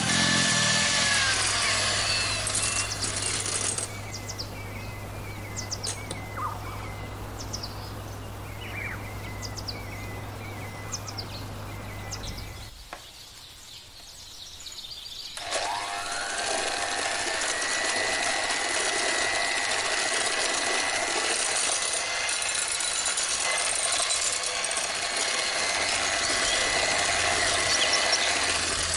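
Electric hand mixer whisking egg whites in a glass bowl, its motor whining steadily. About halfway through it breaks off for roughly three seconds, then starts again, its whine rising as it spins up and then holding steady, beating the whites and sugar into meringue.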